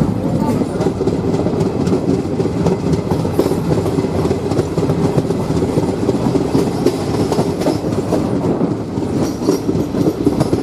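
Passenger train running along the track, a steady loud rumble of wheels on rails with clickety-clack.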